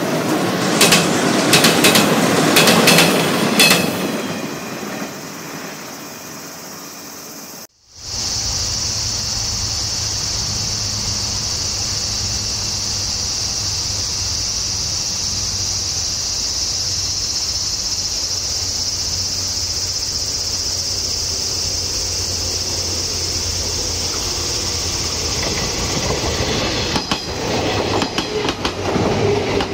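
Shinano Railway 115-series electric train running past, its wheels clicking loudly over rail joints for a few seconds and then fading away. After a cut, a steady high insect drone holds until a second 115-series train comes up, its wheels clicking again as it passes close near the end.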